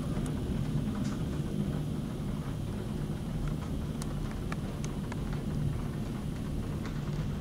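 Heavy thunderstorm downpour with gusty wind: a steady low rumbling rush of rain, with scattered sharp ticks of drops striking close by.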